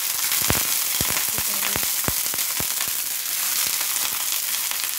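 Sliced tinda (Indian round gourd) hitting hot cooking oil in a frying pan, sizzling loudly with many crackling pops; the pops thin out after about three seconds, leaving a steady sizzle.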